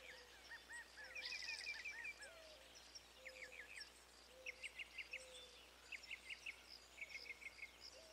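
Faint chirping of birds: short runs of four to six quick chirps, repeating every second or so, with a soft lower note now and then.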